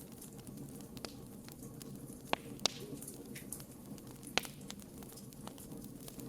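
Campfire burning: a steady low rush of flames with irregular sharp crackles and pops from the wood, the loudest three coming about two and a half and four and a half seconds in.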